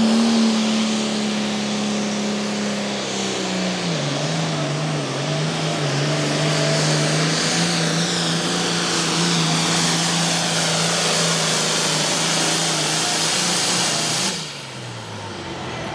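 Super Farm pulling tractor's turbocharged diesel engine running hard under load as it drags the weight sled, with a high hiss over it. Its pitch drops about four seconds in and then holds steady. Near the end the engine falls away suddenly as it comes off the power.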